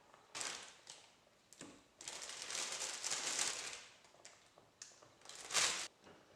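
Household handling noises: a string of short rustles and knocks, a longer rustling stretch from about two to four seconds in, and the loudest scrape shortly before the end.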